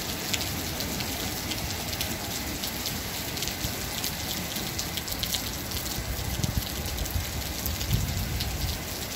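Heavy rain falling steadily, with many sharp ticks of drops hitting hard surfaces close by.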